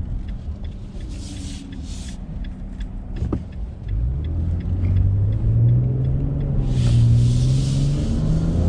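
Nissan Frontier's 3.8-litre V6 engine heard from inside the cab, pulling under load as the pickup accelerates uphill. It gets louder about four seconds in and its note climbs slowly.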